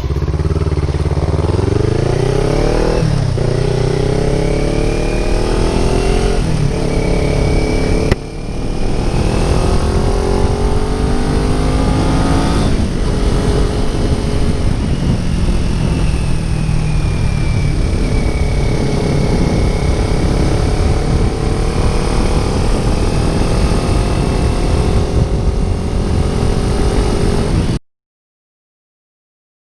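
Kawasaki Ninja 400's parallel-twin engine accelerating through the gears, its pitch climbing and dropping at each of several upshifts, then running at a steadier pitch, over wind noise. The sound cuts off abruptly near the end.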